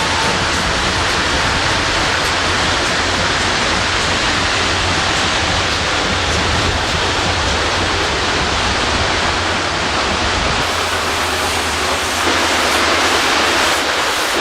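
O scale model train running on its track, a loud steady rushing of wheels and motor. About ten seconds in, the low rumble drops away.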